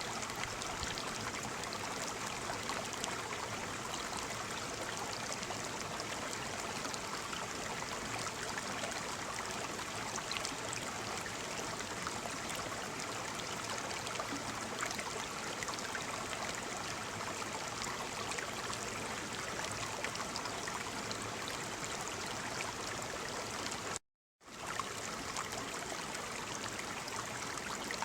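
Waterfall: a steady, even rush of falling and splashing water. The sound cuts out completely for under half a second near the end, then resumes as before.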